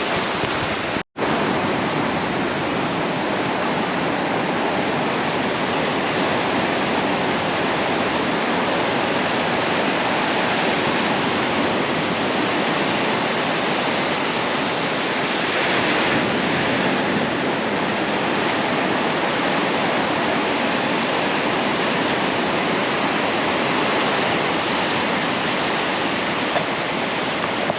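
Steady ocean surf washing onto a beach, a continuous rushing wash that swells slightly around the middle.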